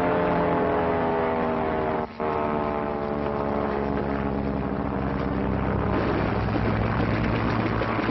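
Propeller airplane engine drone, its pitch slowly falling, with a brief cut about two seconds in. After about six seconds it gives way to a rougher, lower rumble.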